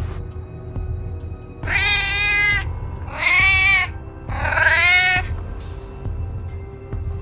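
A cat meowing three times, each meow drawn out close to a second, over background music.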